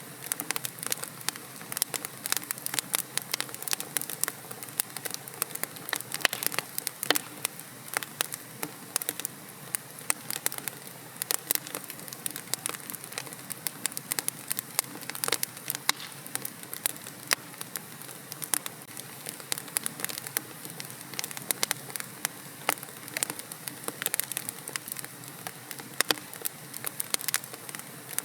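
Wood fire burning in a fireplace, crackling with many sharp pops and snaps over a steady low hiss.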